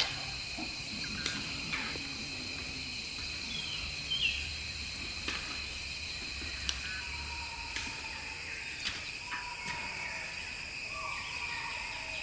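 Outdoor ambience of steady, high insect trilling, with a few faint short bird chirps and scattered clicks.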